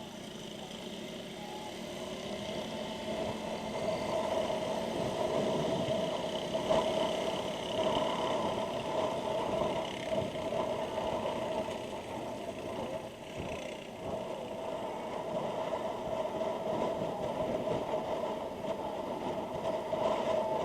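Motorcycle running on the road, heard through a Freedconn R1 helmet intercom microphone: a steady engine hum over road noise, growing louder over the first few seconds and then holding steady, with the wind noise kept down.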